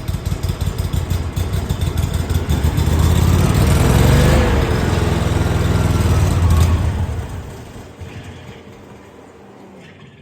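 Small gasoline engine of a portable air compressor running on choke, getting louder for a few seconds, then running down and dying away about seven seconds in. The compressor is not building any pressure.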